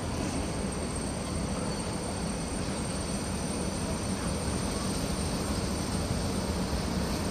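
Red SBB Re 4/4-class electric locomotive and its passenger coaches running slowly into the platform, a steady rumble of motors and wheels that grows slowly louder as it approaches.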